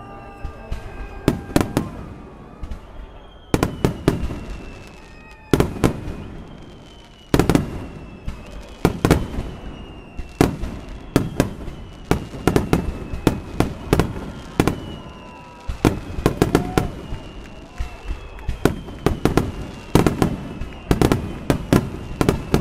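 Aerial fireworks bursting in rapid clusters, several sharp bangs a second, with faint whistles falling in pitch between them.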